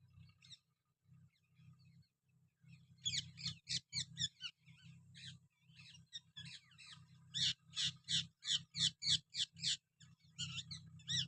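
Parrot calling in short repeated squawks, sparse at first and then coming thick and fast, with a quick run of about three calls a second past the middle.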